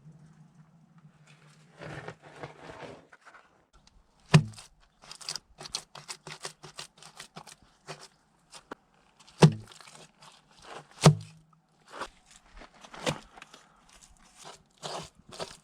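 Hand work: a steady run of sharp clicks and short scrapes, with three heavy knocks about four and a half, nine and a half and eleven seconds in.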